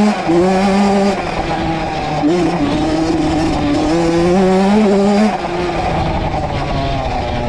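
Honda CR two-stroke dirt bike engine being ridden hard, its pitch climbing as it revs under load, with the throttle dropping off about a second in and again past the five-second mark.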